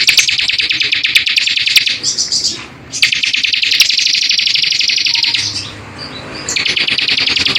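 A small songbird singing a rapid-fire trill of sharp, high notes, broken twice by short pauses.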